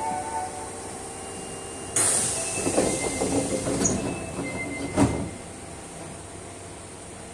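Sliding doors of an Osaka Metro 22 series subway car closing at a station. A sudden hiss starts about two seconds in, followed by a rattling rumble, then a sharp thump about five seconds in as the doors shut.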